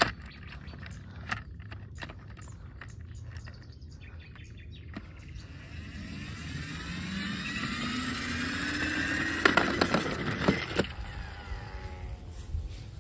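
A motor whine rising steadily in pitch and loudness for about five seconds, with several sharp clicks and knocks near its peak, then fading; a low steady rumble runs underneath.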